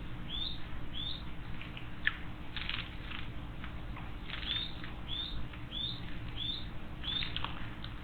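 A small songbird calling over and over: short, high, hooked notes about twice a second, with a pause of a few seconds in the middle, and a few brief scratchy chirps in between.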